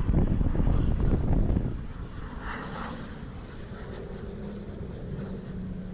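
Aircraft engine noise from a plane near the runway: a loud low rumble that drops off after about two seconds, followed by a quieter steady hum.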